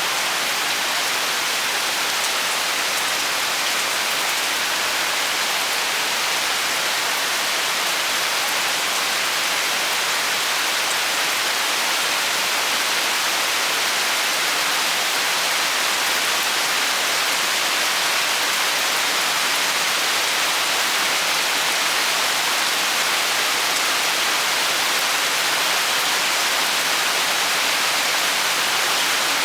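Steady rain falling, an even hiss of heavy rainfall with no single drops standing out.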